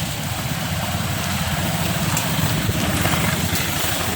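Steady rushing of a swollen river in flood, its fast current heard as an even noise over a low rumble.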